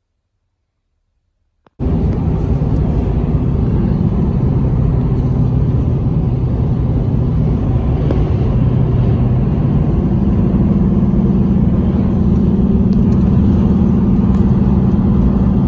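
Motor vehicle engine running steadily with a low rumble, cutting in abruptly about two seconds in.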